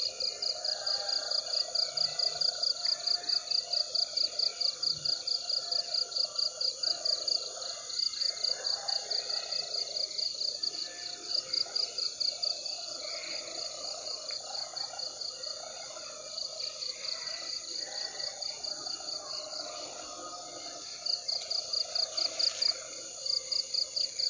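Cricket chirping in a rapid, even pulse of about five chirps a second, in runs broken by short pauses. Under it runs a lower, wavering chorus of other night insects or frogs.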